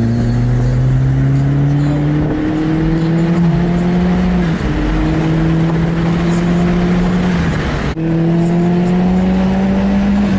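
A car engine pulling hard under acceleration, its pitch climbing steadily, then dropping and climbing again about four times as the car accelerates and shifts.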